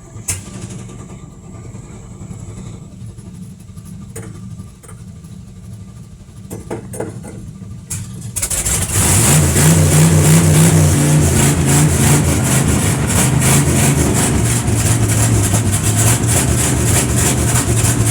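Carbureted Chevrolet C10 pickup's engine being cold-started, heard from inside the cab. The starter cranks for about eight seconds, then the engine catches and runs much louder, revs briefly and settles to a steady fast idle.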